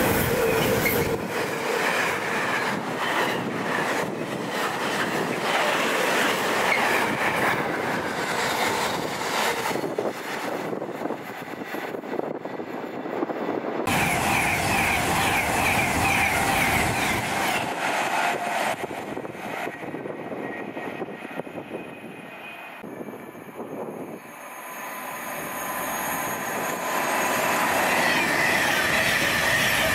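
Train running past on the main line: continuous wheel-on-rail noise with thin high whining tones. The sound changes suddenly about halfway through, dips, then builds again near the end as a train comes through.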